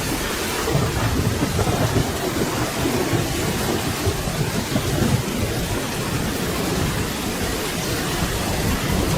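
Steady, dense rain with a low, rolling rumble of distant thunder underneath, swelling and easing without any sharp crack.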